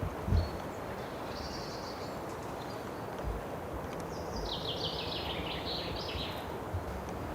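A small songbird sings a descending run of high notes about four seconds in, after one short high note near the start, over a steady outdoor background hiss. A few faint low thuds are scattered through it.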